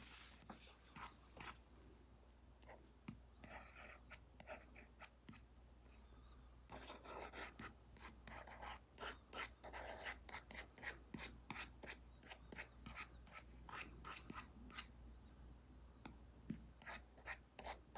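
Apple Pencil Pro tip scratching across an iPad screen fitted with a paper-like matte film, in many quick short strokes. The strokes are faint and come thickest from about seven to fifteen seconds in.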